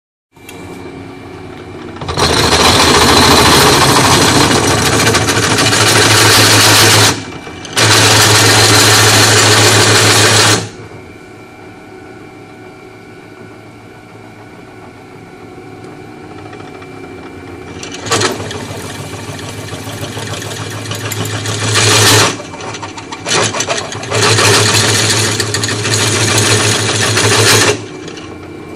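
Power drill boring holes for M16 bolts: four loud bursts of drilling, each several seconds long, with the motor running more quietly between them.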